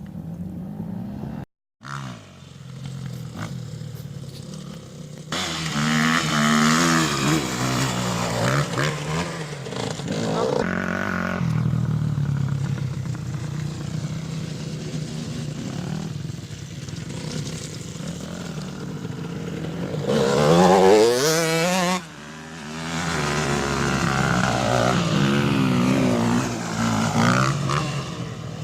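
Off-road motorcycle engines revving, the pitch climbing and falling repeatedly. The sound drops out briefly about a second and a half in and changes abruptly near the end.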